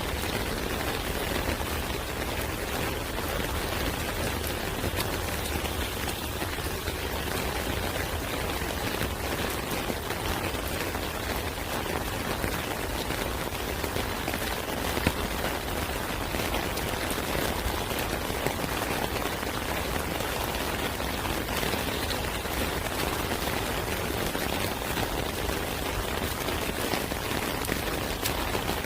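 Steady rain falling, an even hiss with many small drop ticks scattered through it and one sharper drop about halfway through.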